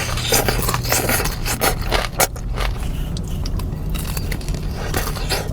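Irregular scraping and clicking of a utensil in a takeout food container, as of loaded fries being dug into.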